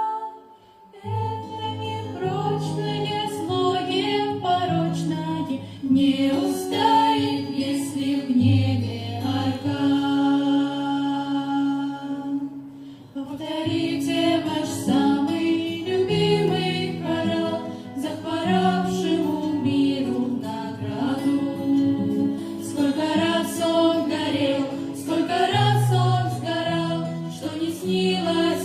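A vocal ensemble singing in harmony over accompaniment with held low bass notes. The music drops out briefly at the start and again about halfway, then carries on.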